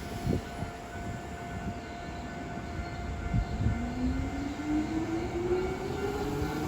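A Hankyu electric train with a rising motor whine, starting a little over halfway through and climbing steadily in pitch, over a steady hum and rumble, with a few knocks near the start.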